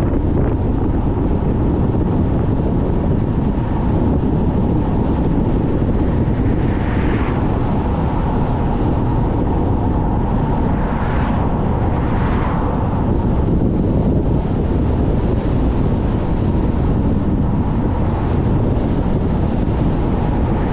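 Car driving in very strong wind: steady, heavy wind and road noise. Three brief swells of hiss rise over it near the middle.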